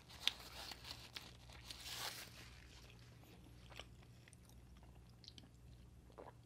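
Faint close-up chewing of pizza with cheese-stuffed garlic-knot crust: small crunches and mouth clicks, busiest in the first couple of seconds, with one sharp click just after the start, then only a few scattered ticks.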